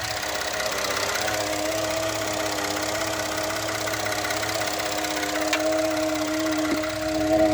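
2013 Ford F-150's 3.5 L EcoBoost twin-turbo V6 idling in park with a steady droning vibration noise, the fault the owner is recording. A brief click about five and a half seconds in.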